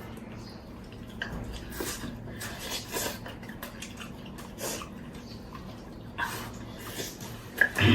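Light clicks and clinks of dishes and utensils during a meal, scattered irregularly over a faint steady hum, with a brief louder sound near the end.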